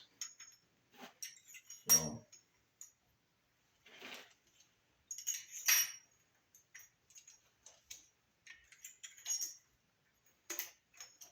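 Light metallic clinks and rattles of Isky steel pushrods being handled and set into the engine, coming in scattered bursts with short quiet gaps.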